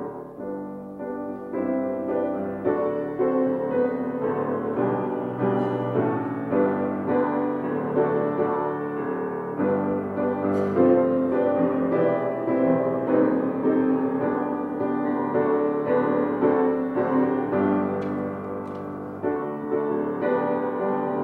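Piano playing a slow, gentle instrumental piece.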